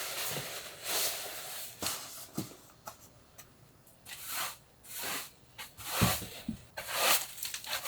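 Rustling and handling noises in short irregular bursts, with a few soft knocks, the loudest about six seconds in.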